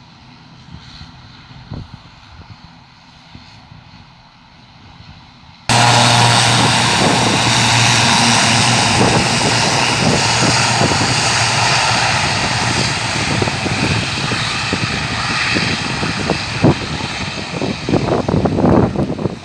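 Sky Express passenger aircraft's engines running for takeoff. At first it is a quieter, distant drone; about six seconds in it switches abruptly to a loud, full engine noise with a steady low hum, which grows ragged and crackly near the end.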